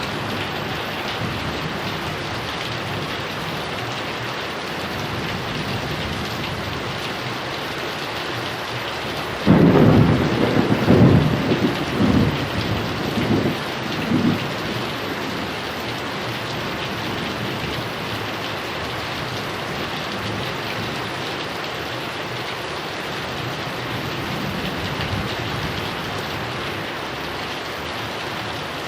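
Steady heavy rain. About nine and a half seconds in, a sudden loud clap of thunder breaks in and rumbles on in several swells for about five seconds, then the rain continues alone.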